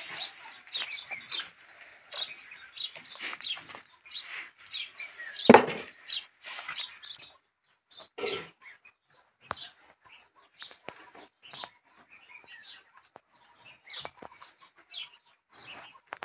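Small birds chirping rapidly and repeatedly, with one loud thump about five and a half seconds in.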